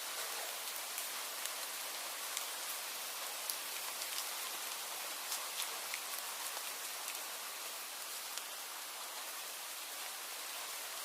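Steady rain falling, a constant hiss with individual drops ticking sharply on a hard surface here and there.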